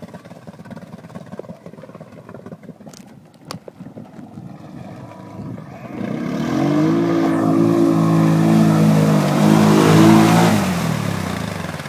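A motor vehicle's engine approaching and passing close by, its steady engine note and road noise growing loud and peaking about ten seconds in, then fading away. Two sharp clicks come earlier.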